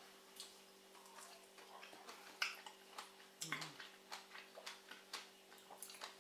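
Faint, irregular wet clicks and smacks of mouths chewing fresh strawberries, over a faint steady hum.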